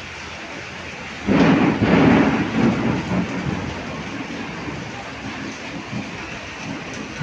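Heavy rain falling steadily. About a second in, a loud clap of thunder from a lightning strike breaks out and rumbles away over the next two seconds.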